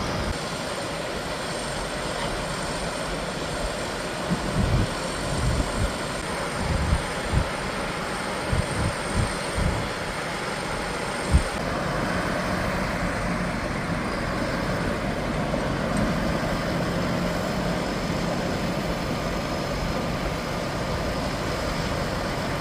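Heavy farm machinery engine running steadily during harvesting, with a run of short, irregular low thumps between about 4 and 11 seconds in.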